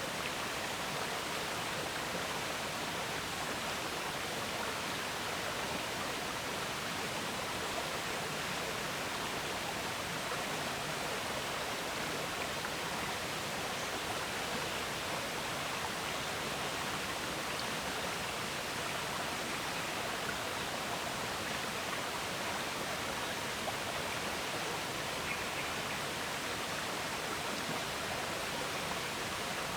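River water flowing, a steady, even rushing with no change.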